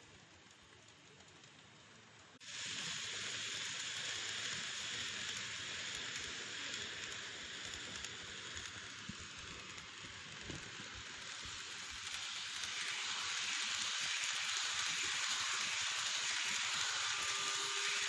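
N-gauge model train running on its track, heard as a steady hissing rattle from wheels and motor. It starts suddenly about two and a half seconds in and slowly grows louder.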